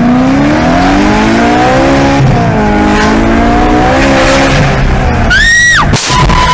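Car engine running under acceleration as heard from inside a car, its pitch climbing and then holding. About five seconds in come a brief, high tyre squeal that rises and then falls, and a sudden sharp bang, followed by a short steady beep.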